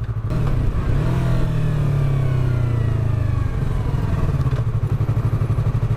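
Yamaha R3 321 cc parallel-twin motorcycle engine with the revs falling steadily as the bike slows, then running evenly at low revs with a regular pulsing beat.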